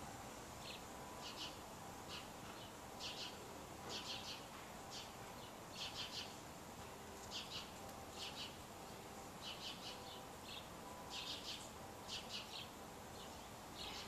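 Small birds chirping: short high chirps, often in quick clusters of two or three, repeating irregularly over a steady outdoor hiss.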